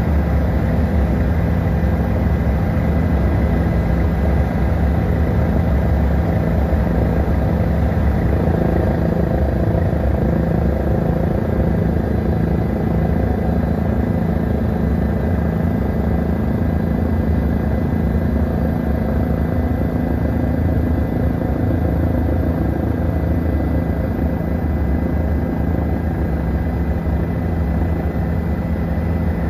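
Helicopter in flight: steady, loud rotor and engine noise with a faint steady whine above it.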